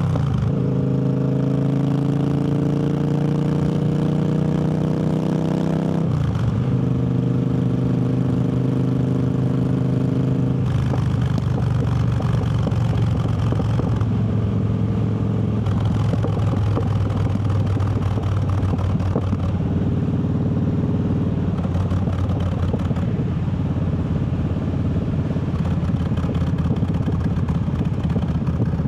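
Triumph Bobber's 1200 cc parallel-twin engine pulling the motorcycle up through the gears: its pitch rises, drops sharply at an upshift about six seconds in and again about ten seconds in. After that the engine runs at a steadier pitch under a rushing noise.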